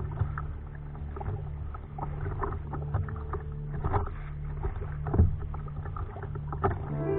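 Kayak paddle dipping and splashing in the sea water in irregular strokes, the loudest about four and five seconds in, over a steady low hum.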